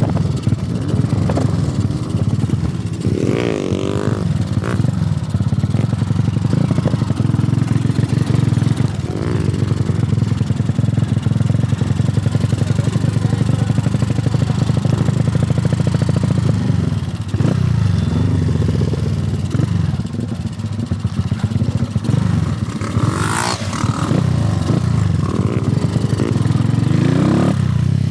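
Single-cylinder four-stroke engine of a Honda CG motorcycle running under way. Its engine speed rises and falls several times as it pulls and changes gear.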